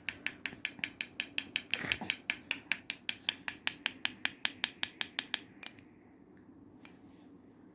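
A fast, even run of light, sharp clicks, about five or six a second, that stops about five seconds in.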